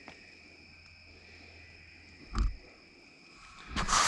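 Steady high night chorus of insects and frogs. A sudden dull thump comes a little past halfway, and a loud rustling burst near the end.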